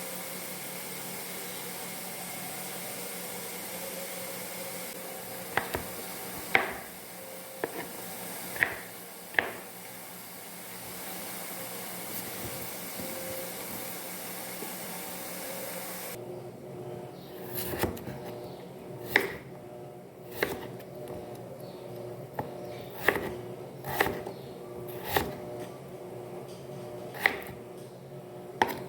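Steady room hiss with a few sharp clicks. About halfway through it gives way to a quieter background and a run of sharp knocks and clicks, roughly one a second, as objects are handled.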